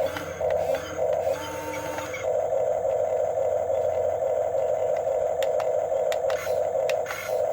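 Electric motors and gearboxes of a Huina 1550 RC excavator whining steadily as the machine works, with scattered sharp clicks.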